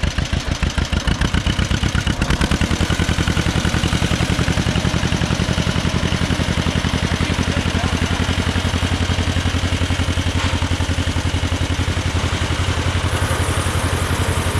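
John Deere two-cylinder tractor engine running steadily at idle, with an even, rapid beat of firing pulses.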